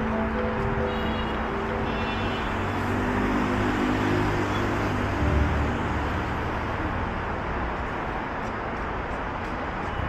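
Steady road traffic noise, with held musical tones over it during the first half.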